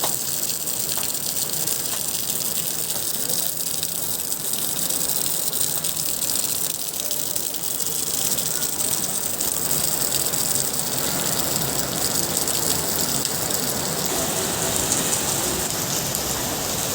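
Heavy rain pouring steadily, a dense even hiss of falling water with fine spattering drops.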